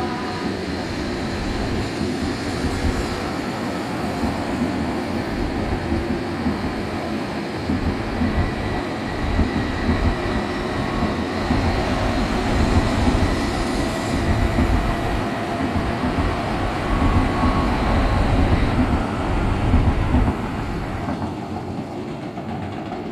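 Sanyo Shinkansen train running past at the platform, its rail and wheel noise building for about twenty seconds, then falling away sharply near the end.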